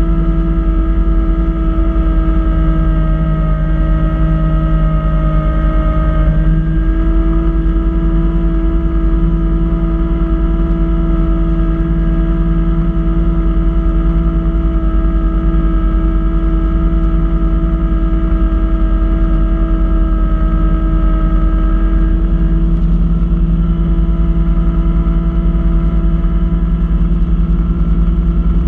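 Kubota B2650 tractor's three-cylinder diesel engine running steadily under load while driving a front-mount snow blower, with a steady whine over the engine rumble that shifts slightly in pitch twice.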